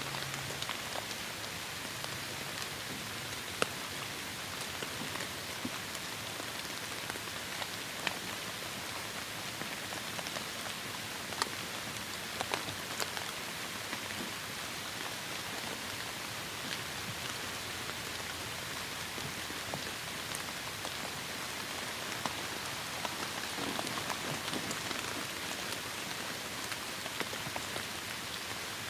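Heavy rain falling steadily, a constant hiss with scattered sharp ticks of individual drops striking close by.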